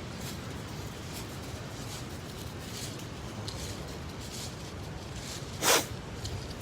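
Footsteps on a shingle beach: irregular faint clicks and crunches of pebbles, over a steady low rumble of wind on the microphone. About five and a half seconds in there is one sharp, louder crunch or clack.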